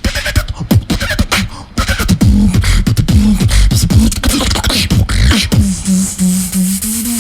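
Beatboxing: a fast run of vocal kicks, snares and clicks, going over near the end into a pulsing, held low buzz.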